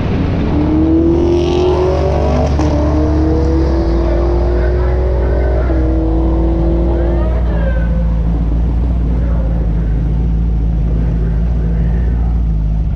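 A race vehicle accelerating hard down a drag strip, its engine note climbing and dropping back at two gear changes before fading away, over a steady low rumble.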